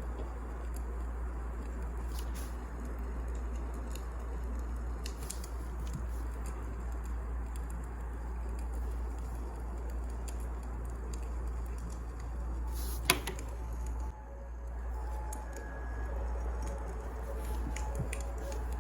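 Wood fire crackling over a steady low rumble, with scattered small pops and one sharp, loud pop about thirteen seconds in. Faint held musical tones come in over the last few seconds.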